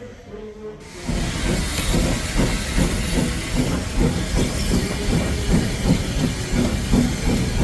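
Steam train running, with a steady hiss of steam and a regular low beat about twice a second. It starts abruptly about a second in.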